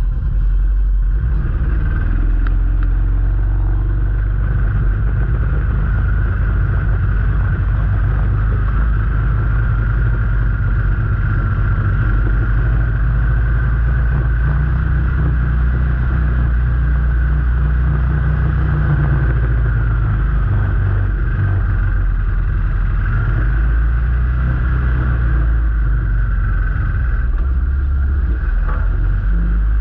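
Vehicle engine and running noise: a loud, steady low rumble with slight waverings in pitch, as from a vehicle being driven along a track.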